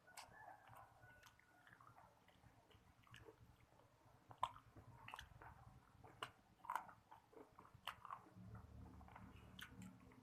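A person biting and chewing crispy fried chicken: soft, scattered crunches and mouth clicks, with a few louder crunches around the middle.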